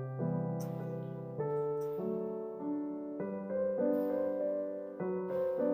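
Background piano music: soft, slow chords changing about every half second to second.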